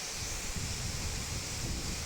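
Steady rushing of a waterfall, with wind buffeting the microphone in uneven low gusts.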